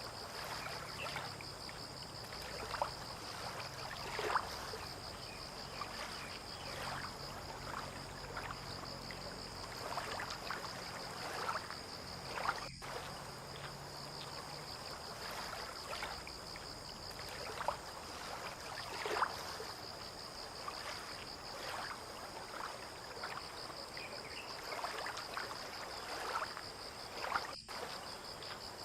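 Harbour water lapping and splashing irregularly against the shore and moored boats, a small slap every second or so. A steady high-pitched trill runs underneath, and a faint low hum stops about halfway through.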